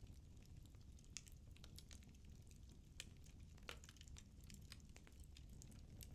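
Firewood burning in a fireplace, crackling faintly with scattered small pops over a low, steady rumble.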